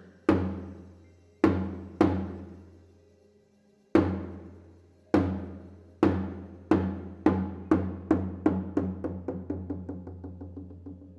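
A deep drum struck a few times with long gaps, each stroke ringing out, then strokes coming faster and faster and quieter into a dwindling roll that dies away near the end.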